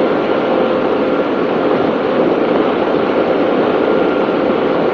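Racing powerboat running flat out, heard from on board: a steady, loud engine drone mixed with the rush of wind and water.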